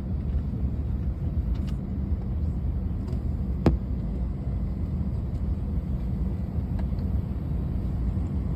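Steady low rumble inside an Airbus A321's passenger cabin while parked at the gate, before engine start, with one sharp click about three and a half seconds in and a few faint ticks.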